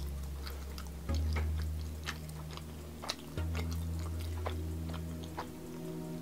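Close-up chewing of soft ravioli in sauce, with scattered small clicks of a metal fork against a glass bowl. Under it runs background music whose deep bass note changes every couple of seconds.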